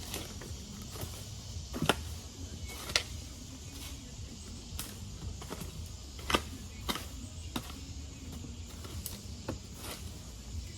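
A hand garden tiller working the soil: sharp, irregular knocks a second or so apart, over a steady low rumble and hiss.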